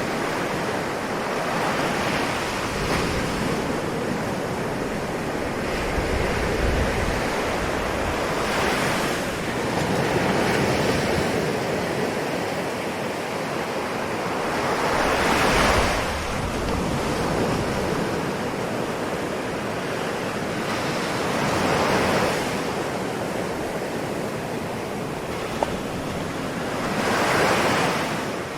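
Ocean waves breaking and washing onto the shore in a continuous surf, swelling about every six seconds, four surges in all, the loudest about halfway through.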